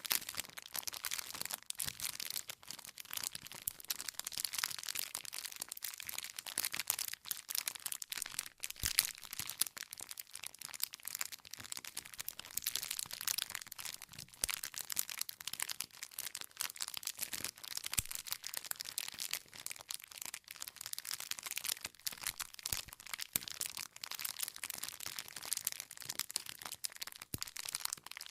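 Wood fire crackling steadily, a dense run of small snaps and pops from burning logs, with a few sharper pops here and there.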